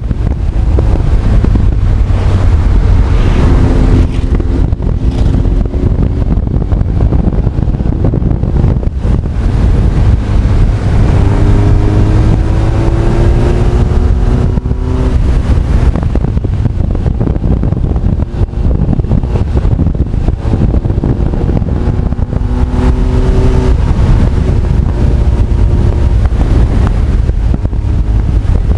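Honda CB1300 Super Bol d'Or's inline-four engine running on the road, its pitch rising as it accelerates a few seconds in, around the middle and near the end. Heavy wind buffeting on the microphone throughout.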